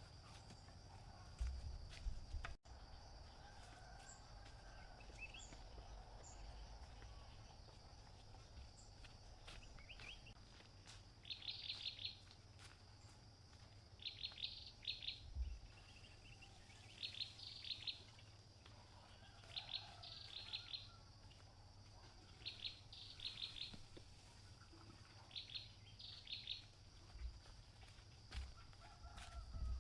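Faint countryside ambience: a bird repeating short phrases of four or five rapid chirps every two to three seconds, over a steady high-pitched insect drone.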